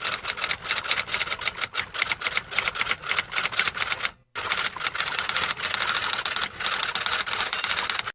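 Typewriter sound effect: a fast run of mechanical typewriter keystrokes, several clicks a second, with a short break about four seconds in before the typing resumes.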